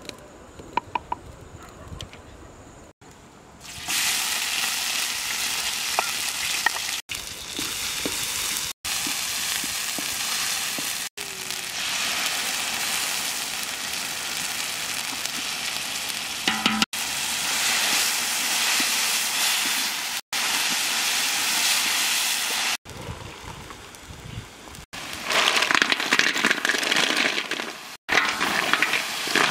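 Spice paste sizzling in hot oil in a large wok, a steady hiss heard in several short clips after a quieter start with a few clicks. Near the end the frying grows louder and crackly as snails in their shells and raw meat go into the pan.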